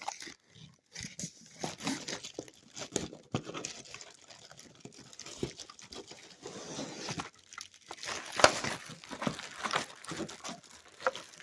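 Plastic packaging crinkling and rustling, with scattered clicks and knocks of plastic vacuum parts being unpacked and handled; one sharper knock about eight and a half seconds in.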